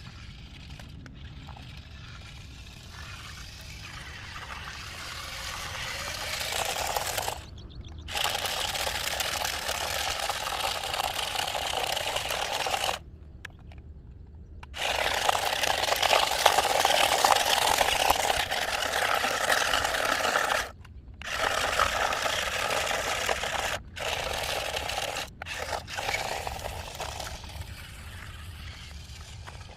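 Water splashing and rushing as a pickup truck ploughs through deep water. The noise builds up over the first several seconds and breaks off abruptly several times.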